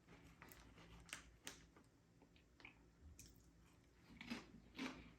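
Faint chewing of crunchy chips: scattered soft crunches, a few slightly louder ones about a second and a half in and near the end.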